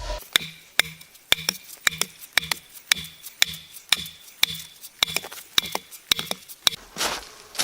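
Hammer blows on pallet wood, about two a second, each knock followed by a brief ringing.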